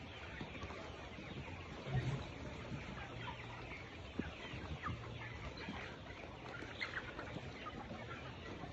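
A flock of chickens clucking and calling while they feed, many short overlapping calls with one louder call about two seconds in.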